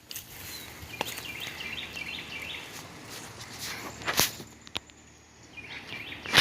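A songbird singing a quick run of repeated chirping notes, twice, over outdoor background noise, with a few sharp knocks such as footsteps or handling, the loudest near the end.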